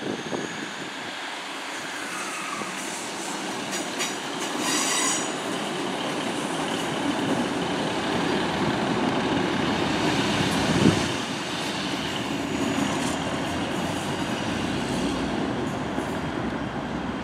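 Northern Class 150 and Class 156 diesel multiple units running past, a continuous rumble of the train on the rails that swells and then eases. A few clicks come a few seconds in, and a single thump about eleven seconds in is the loudest moment.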